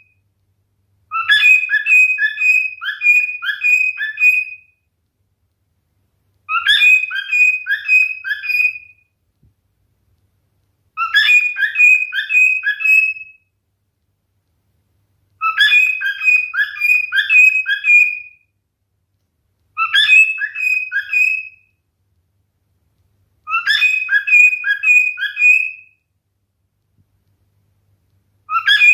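Male cockatiel whistling a short song phrase of quick chirping notes, repeated about seven times with pauses of about two seconds between phrases.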